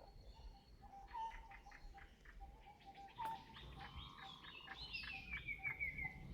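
Birds chirping and calling: a run of short chirps, then a quick descending series of whistled notes near the end.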